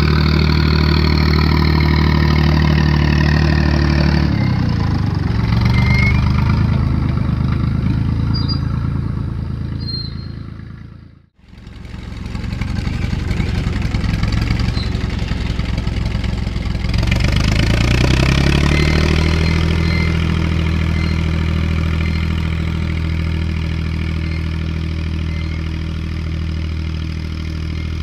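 Tractor engine running under load while pulling a field roller. The engine speed drops about four seconds in, the sound cuts out briefly just after eleven seconds, and around seventeen seconds the engine runs back up to a steady speed.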